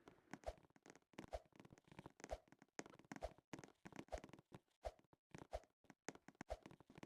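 A regular series of soft thumps, about one a second, each a short low knock with a hollow mid-pitched ring.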